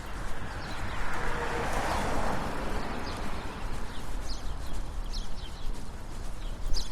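Brisk footsteps on a city sidewalk, with a vehicle passing on the road, swelling and fading about one to three seconds in.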